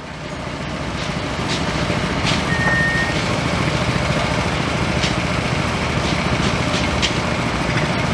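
Engine of heavy track-work machinery running steadily, rising in level over the first second, with several sharp metallic clicks and one short high beep.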